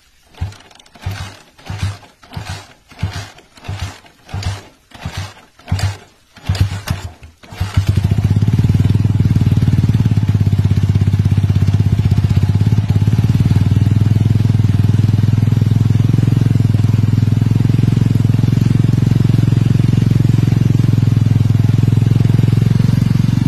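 Small single-cylinder motorcycle engine, with water from a garden hose running into it, being started: a dozen or so heavy, uneven chugs about twice a second. About seven seconds in it catches and then runs steadily and loudly.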